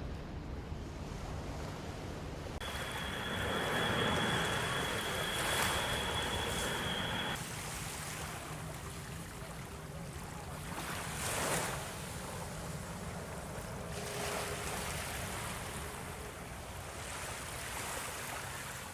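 Wind and water noise, with wind buffeting the microphone, as on a ship at sea. A steady high-pitched tone sounds for several seconds near the start.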